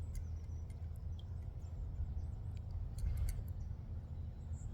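Outdoor pond ambience: a steady low rumble, with faint high bird chirps now and then and a few light clicks.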